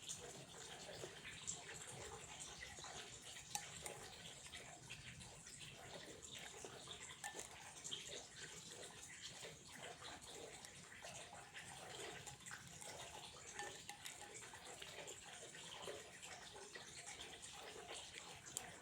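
Water flowing and trickling steadily and softly, with many small splashes and drips.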